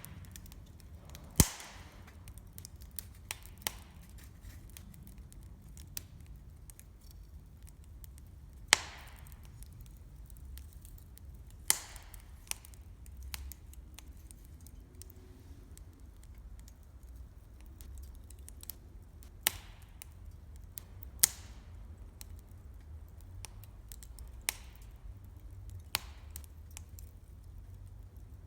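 Wood campfire crackling: sharp pops and snaps every few seconds over a faint low rumble of the fire.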